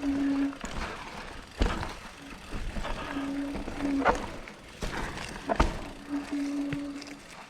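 Mountain bike on a dirt trail: a steady buzz comes and goes three times, about a second each, with knocks from the bike over rough ground about a second and a half in and again near the six-second mark.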